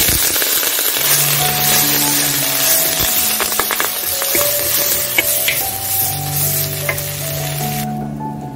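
Ground chili spice paste sizzling loudly in hot oil in a pan as it is stirred with a spatula, with a few light scrapes and taps. The sizzle cuts off suddenly near the end.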